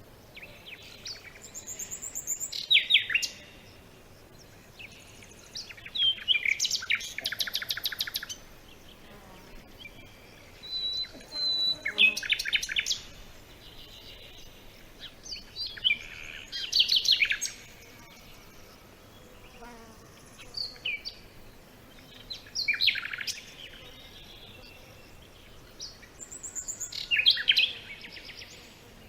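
Birds singing: short phrases of rapid, high chirps and trills come every four to five seconds, with quiet background between them. One brief steady whistled note comes about eleven seconds in.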